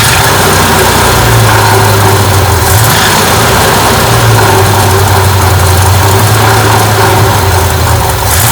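Rebuilt Chevrolet 350 small-block V8 running steadily just after its first start following the rebuild, its pitch shifting slightly a few times.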